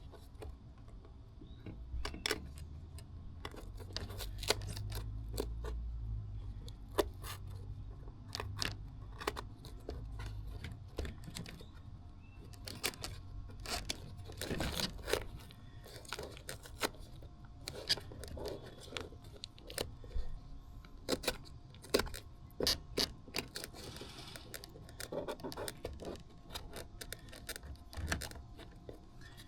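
Small workbench handling sounds: a long irregular run of clicks, taps and rustles as masking tape and a piece of plastic are handled and cut to shape, with a low rumble for the first ten seconds or so.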